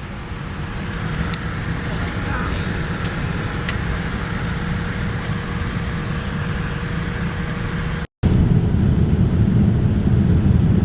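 Steady low rumble of a car driving, the road and engine noise of a moving vehicle; about eight seconds in it cuts to a louder, heavier stretch of the same rumble.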